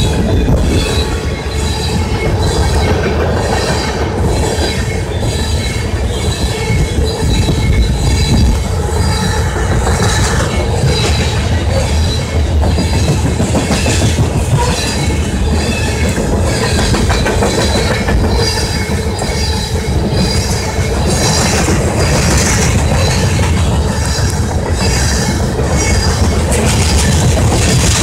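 Loaded freight train of covered hopper cars rolling past at speed: a steady heavy rumble with regular clicking as the wheels cross rail joints, and a thin steady wheel squeal over it.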